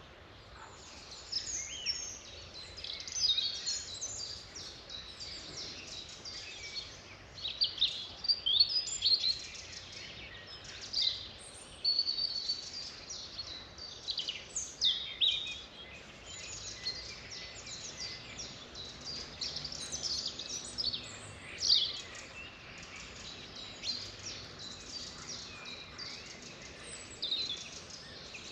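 Chorus of wild songbirds singing and chirping, many quick high notes and short trills overlapping, over a faint steady background hiss.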